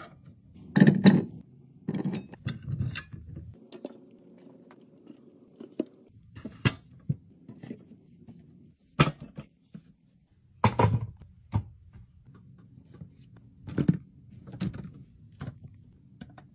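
Items and containers being handled and set down while a fridge is restocked, with sharp clicks, taps and knocks at irregular intervals, the loudest cluster about a second in.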